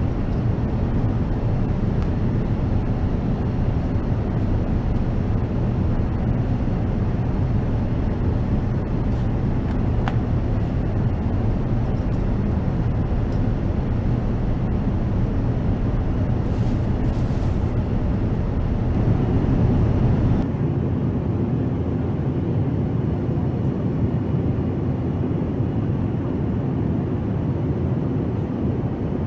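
Steady cabin noise of an Airbus A380 airliner in flight: a low, even rush of engine and airflow noise. About two-thirds of the way through the sound shifts and turns a little duller.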